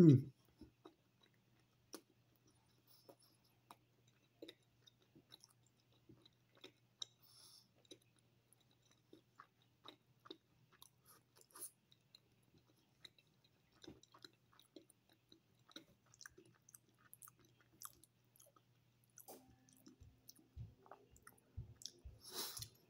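Close-mouthed chewing of a mouthful of blueberry fritter: faint, irregular soft clicks and smacks. A short loud sound at the very start, and a louder burst of noise just before the end.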